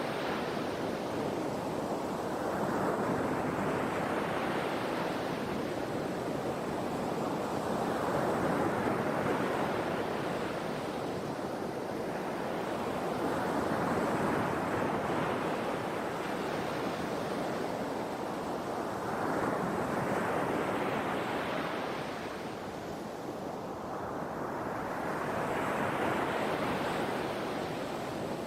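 Sea waves breaking and washing ashore, a steady rush of surf that swells and falls back about every five seconds.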